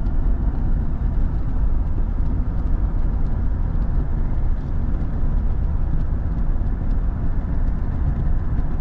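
Steady road and engine noise inside a moving car's cabin, a low rumble of tyres and motor while driving.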